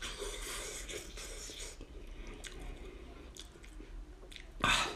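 Close-miked chewing and biting on cooked sheep's-head meat, wet and smacking with crunches for the first couple of seconds, then quieter with small clicks. A short, louder burst of noise comes just before the end.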